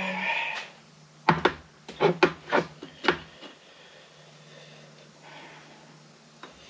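A quick series of about six sharp knocks and clacks, objects being handled and set down, over a steady low hum.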